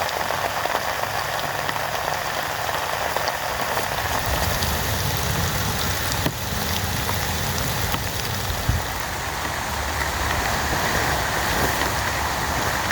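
Heavy rain falling steadily, with scattered sharp drop ticks. From about four seconds in, a low rumble builds underneath.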